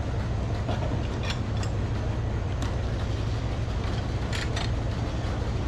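Frick sawmill running steadily, a low even drone from its power unit, with a few short high hissing sounds over it.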